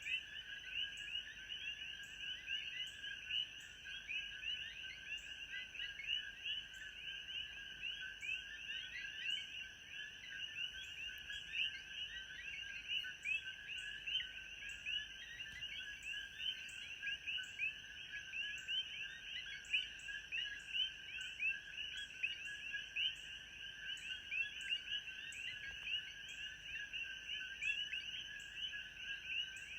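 Dense animal chorus of many short, overlapping chirping calls in two pitch bands, typical of frogs calling at night in tropical forest, with a faint steady high whine and a regular faint high ticking behind it.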